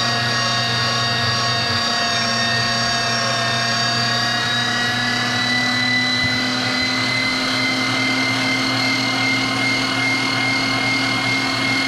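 Electric meat grinder motor running with a steady whine while bread is fed through to clear out the last of the ground meat.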